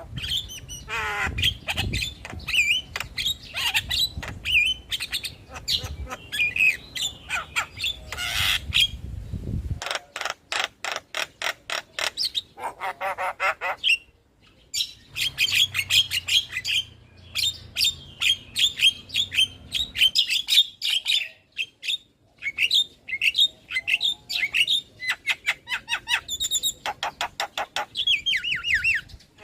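Javan myna singing in full voice: a fast, varied chatter of whistles and harsh squawks, broken by runs of rapid rattling clicks, with a short pause about halfway through.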